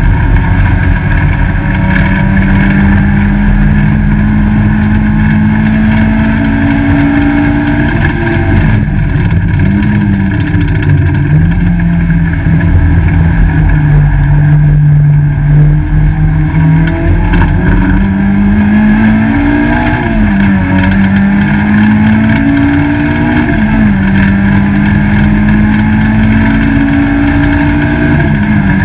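Peugeot 205 GTi race car's four-cylinder engine, heard inside the stripped cabin, pulling hard through the gears. The pitch climbs, then drops sharply at each upshift, several times over. Around the middle it falls lower and holds for a few seconds before climbing again, under a steady rush of road and wind noise.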